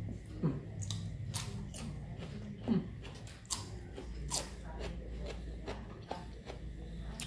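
Close-up chewing and biting of raw cucumber dipped in sambal: irregular crisp crunches and wet mouth clicks, the loudest about half a second in and just under three seconds in.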